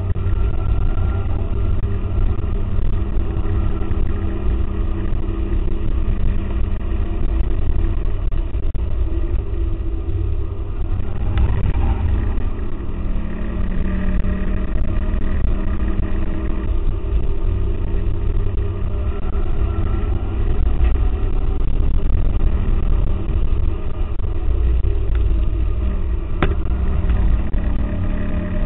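In-cabin sound of a 2004 Mustang GT's 4.6-litre V8 at full pace on a race track, its note rising and falling through the corners over a heavy low rumble, with a couple of brief knocks. Dull and muffled, with no treble, as typical of an early GoPro Hero's poor sound.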